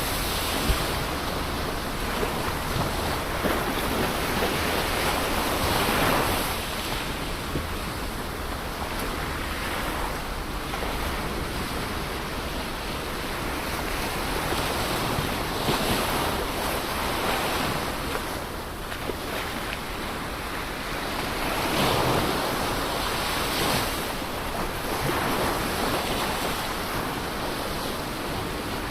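Ocean surf: a continuous wash of breaking waves over a steady low rumble, swelling each time a wave breaks, several times.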